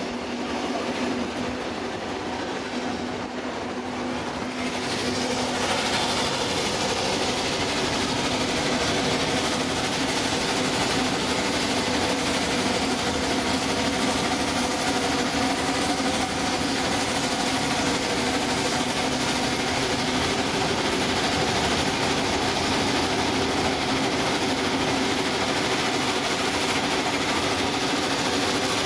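Trains running side by side on parallel tracks: a diesel shunter's engine drones steadily over wheel-and-rail noise, which grows louder and fuller about six seconds in.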